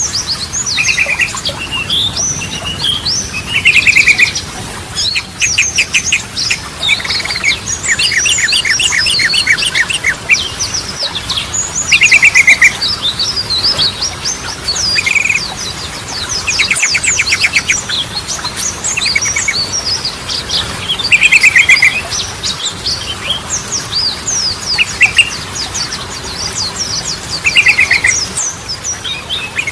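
Yellow-vented bulbul (trucukan) singing: fast, bubbling phrases of short whistled notes that slide up and down. A short, buzzy rattling trill breaks in every two to four seconds.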